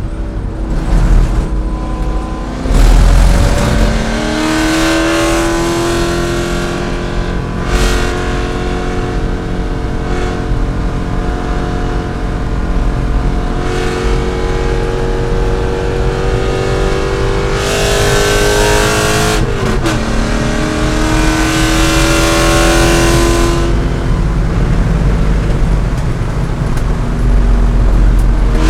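C5 Corvette's V8 engine running hard at racing speed, pulling up through the revs in long climbs, with a sharp drop in pitch about two-thirds of the way through before it climbs again.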